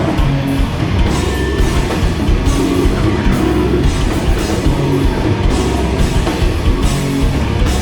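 A grindcore band playing live at full volume: distorted guitars, bass and pounding drums, with no break.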